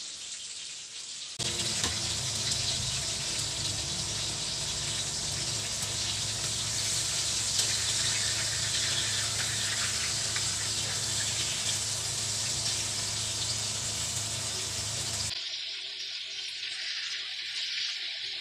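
Food sizzling as it fries in a pan, a steady hiss. It is quieter at first, jumps louder about a second and a half in, and drops back quieter about fifteen seconds in.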